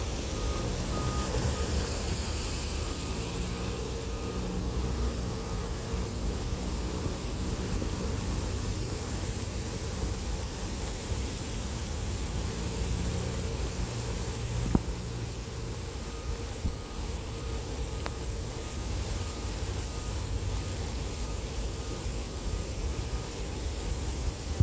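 Street traffic noise: a steady rumble of passing vehicles, with a series of short electronic beeps at one pitch near the start and again later, like a vehicle's reversing alarm. One sharp knock sounds about halfway through.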